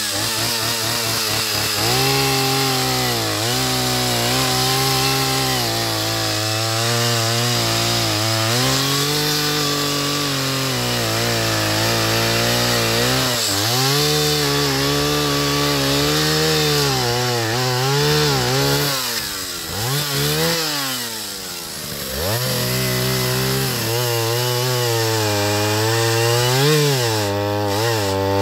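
Jonsered 601 two-stroke chainsaw running under load while cutting wood. Its engine pitch repeatedly sags and recovers as the chain bites. About two-thirds of the way through, the pitch drops away sharply and climbs back before it settles into cutting again.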